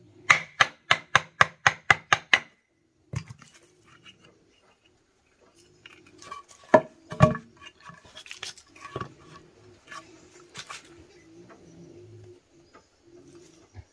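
A tool striking wood: a quick run of about nine sharp knocks, roughly four a second, then a pause and irregular knocks and taps, two of them loud about halfway through.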